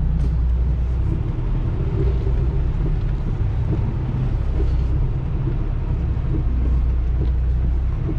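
Semi-truck's diesel engine running at low speed, heard from inside the cab as a steady low drone while the rig creeps through a tight turn.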